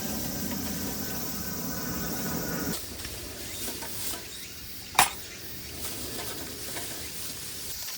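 Bulgogi meat frying with a sizzle, under steady insect chirping. A lower steady rush drops away about three seconds in, and a single sharp click comes a little past the middle.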